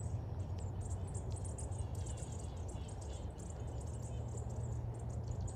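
Thin, very high chips and ticks of small songbirds calling around a feeder, coming quickly and unevenly, with a few softer sliding notes about two and three seconds in, over a steady low hum.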